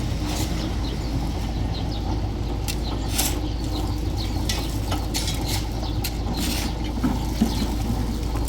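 An engine running steadily, with gritty scraping and scattered knocks over it, typical of concreting work with a mixer.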